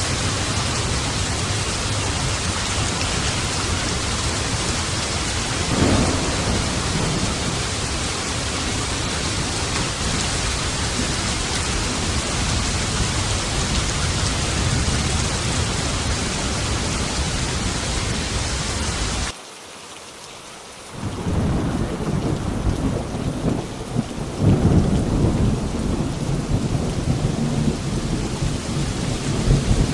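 Steady heavy rain with a low thunder rumble about six seconds in. About two-thirds through the rain cuts off abruptly into a brief lull. It then comes back with rolling thunder swelling near the end.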